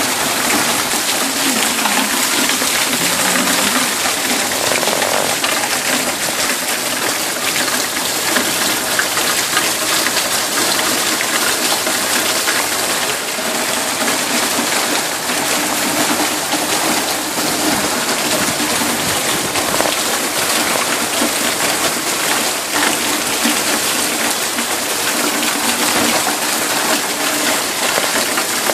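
Heavy rain pouring steadily, a dense even hiss of falling water and splashing.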